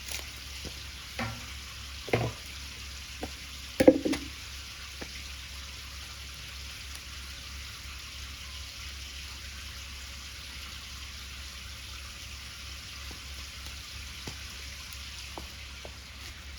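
Steady frying sizzle of pancake batter cooking in a pan over a wood fire, with a few short knocks in the first four seconds, the loudest about four seconds in.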